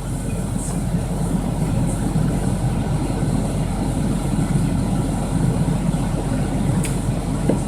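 Vehicle engine running steadily, a low even rumble heard from inside a vehicle's cabin.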